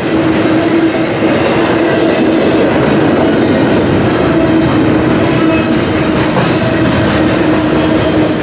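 CSX train passing close by: a loud, steady rumbling rush with a steady hum running through it.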